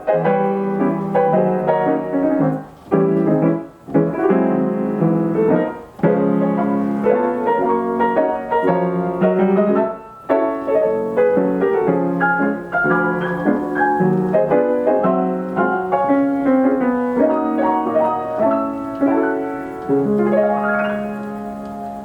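Steinway piano with an Ampico B reproducing action playing a popular-song arrangement from a paper roll, full chords under a melody with a few short breaks. The playing grows quieter near the end.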